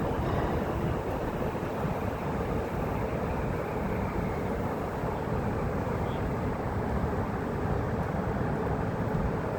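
Steady rumbling ride noise of the Roosevelt Island Tramway aerial tram, with a faint whine that slowly falls in pitch over the first few seconds.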